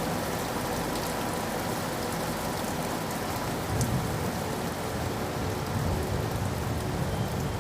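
Steady rain falling. A low rumble swells about halfway through and again near the end.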